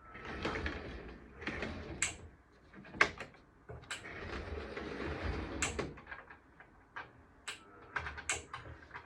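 Hands handling Hornby model train stock on the layout: rustling and sliding, broken by a series of sharp, irregular plastic clicks and knocks.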